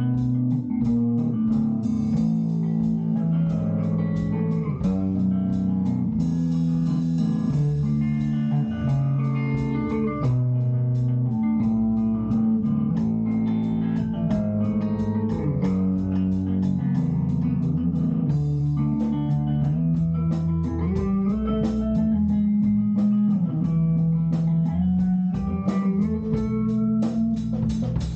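Instrumental band music: electric guitar and bass guitar playing a line of changing notes over a steady drum beat.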